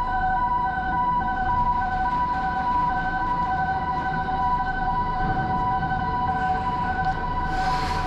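Electronic warning alarm sounding a steady chord of several tones that pulse slightly and do not change pitch, over a low workshop rumble. A hiss rises near the end.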